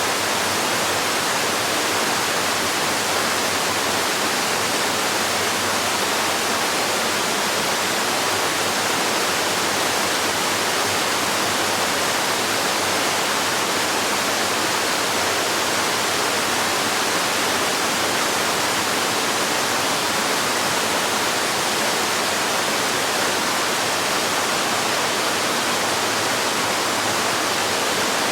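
Steady, unbroken rush of a waterfall splashing, an even hiss with no changes.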